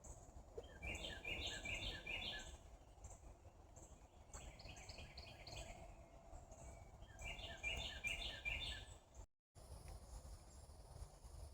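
A songbird singing three bouts of quick, evenly repeated chirping notes, over a faint low outdoor rumble. The sound cuts out completely for a moment near the end.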